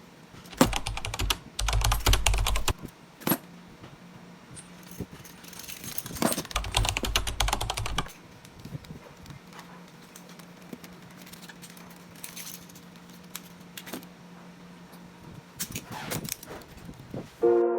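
Several bursts of clicking and metallic rattling from a lock being handled, with low knocks under the first two bursts. A faint steady hum runs underneath.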